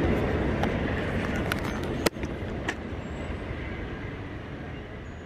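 A train rumbling past the grade crossing, with a few sharp clicks, dying away steadily; a loud click about two seconds in is followed by a brief dip.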